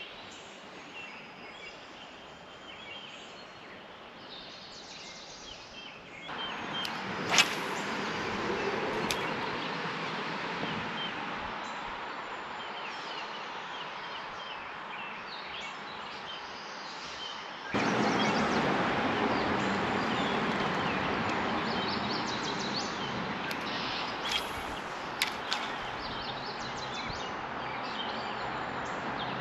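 Steady rush of shallow running creek water with small birds chirping, and a few sharp clicks and taps. The water noise steps up abruptly twice.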